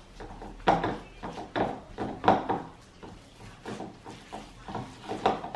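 Kitchen utensils and dishes being handled: a string of about ten light, irregular knocks and taps.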